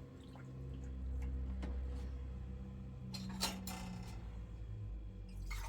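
A few light clicks and clinks over a low steady hum, with the loudest cluster of clicks about three seconds in.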